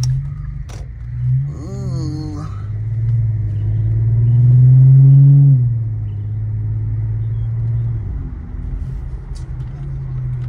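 Infiniti Q50 3.0t's twin-turbo V6 engine heard from inside the cabin, accelerating. Its drone builds to its loudest about five seconds in, drops suddenly at an upshift, then holds steady before easing off near the end.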